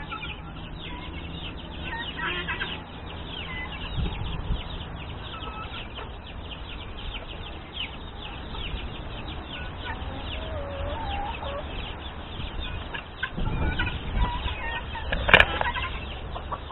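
Backyard poultry flock clucking, with a steady stream of rapid high chirps and a few lower calls. A single sharp click comes near the end.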